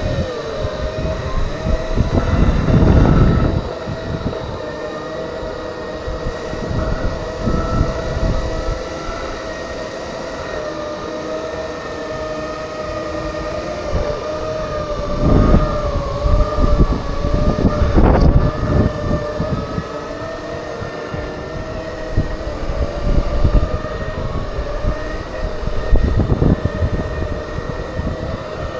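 Segway electric drive whining in a steady, slightly wavering tone while riding along, with gusts of wind noise on the microphone several times.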